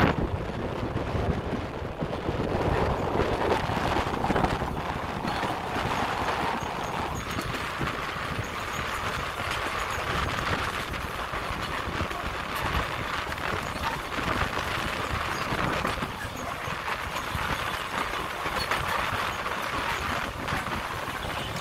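Puffing Billy narrow-gauge steam train under way, heard from aboard a carriage: a steady rumble and rattle of the carriage running on the track.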